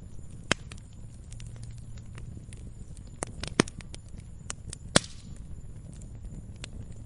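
Campfire crackling: irregular sharp pops and snaps of wood burning over a low steady rumble of the flames. The loudest pop comes about five seconds in, followed by a brief hiss.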